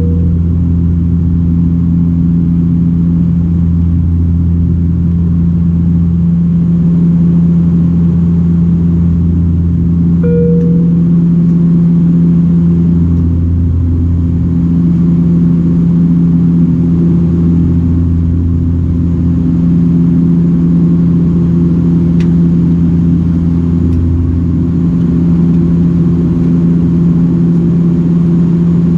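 Steady drone of a Bombardier Dash 8-400's turboprop engines and six-blade propellers heard inside the cabin. It has a low hum and a deeper pulse that swells and fades every few seconds. A short, higher tone sounds about ten seconds in.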